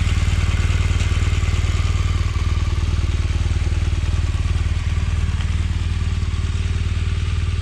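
Honda Africa Twin CRF1000L's parallel-twin engine idling steadily, a low, even pulsing hum.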